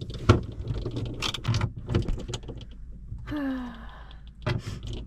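Irregular small clicks and knocks of objects being handled, with a short falling pitched tone about three and a half seconds in.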